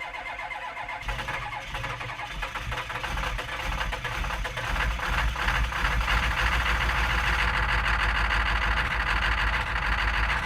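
A machine running steadily, growing louder about halfway through.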